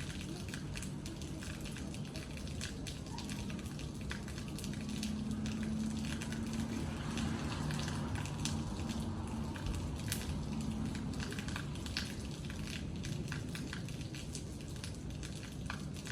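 Rain falling, with many separate drops ticking irregularly on a hard surface. A low steady hum lies beneath and swells slightly in the middle.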